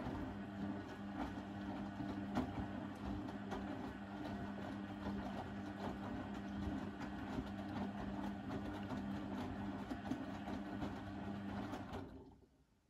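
Blomberg fuzzyDigitronic Granat 3200 washing machine running mid-programme: a steady motor hum with clicking and rattling from the drum, which stops about twelve seconds in.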